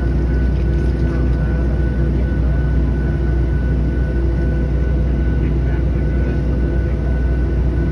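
Steady cabin drone inside a Boeing 737-700 on the ground, its engines idling, with a thin steady whine above the low rumble.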